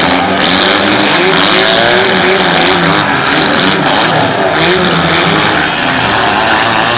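Several demolition derby cars' engines revving at once, their pitches rising and falling over each other, loud and continuous.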